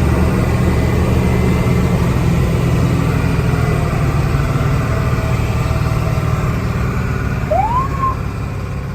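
Ford F700 fire truck's diesel engine running steadily as the truck drives off, heard from the back seat of the cab.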